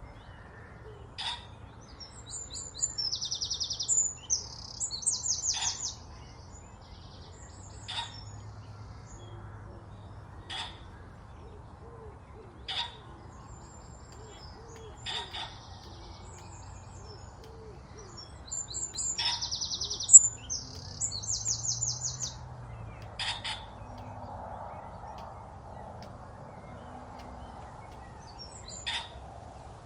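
A songbird singing fast, high trilled phrases twice, about 2 seconds in and again about 19 seconds in. Single sharp knocks come every two to three seconds throughout.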